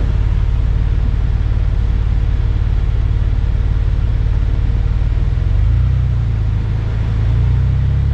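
Jeep Wrangler Unlimited's engine and road rumble heard from inside the cab while driving: a steady low drone whose pitch shifts about five and a half seconds in.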